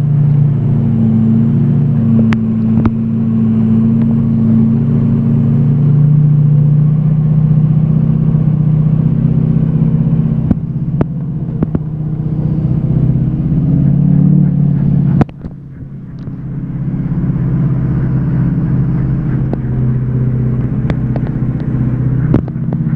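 6.0 Power Stroke turbo-diesel V8 working hard under heavy load as it tows a loaded dump truck uphill, with its rear tires spinning and barking on dry pavement. About 15 seconds in the sound cuts off sharply and then builds back up over a couple of seconds.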